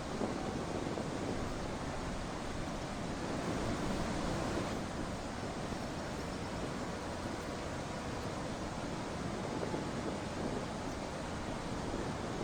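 Steady rushing outdoor ambience, an even noise with no distinct calls or knocks standing out.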